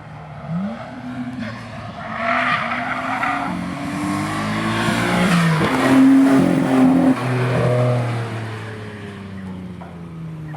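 Nissan Skyline R34 GT-R V-Spec's twin-turbo straight-six driven hard on track, its pitch rising and falling repeatedly. It is loudest about six to seven seconds in, then eases off. The engine is running with a misfire.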